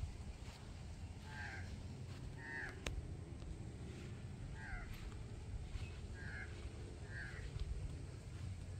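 A bird calling repeatedly, about six short calls roughly a second apart, over a low rumble of wind or handling on the microphone. One sharp click about three seconds in.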